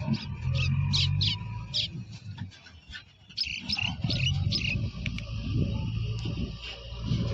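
Engine running low and steady, with two runs of short, sharp high-pitched squeaks or chirps, one early and one around the middle.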